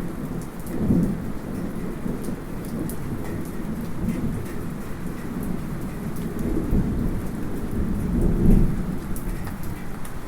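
Light rain falling steadily with distant thunder rumbling, swelling briefly about a second in and more strongly near the end, heard from inside a house. Scattered small drips tick through it.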